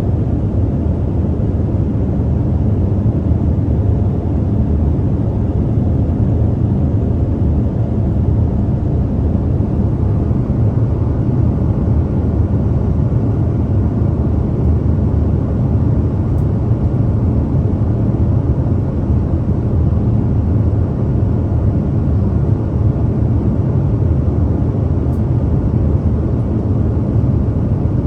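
Airliner cabin noise heard from a window seat in flight: a steady, unchanging low rumble of the engines and rushing air.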